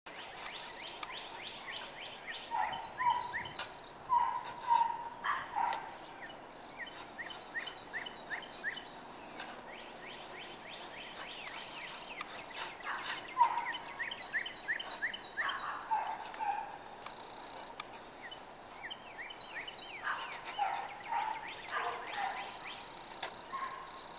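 Songbirds singing: rapid runs of short, high chirps, with lower whistled notes now and then, over faint outdoor background noise.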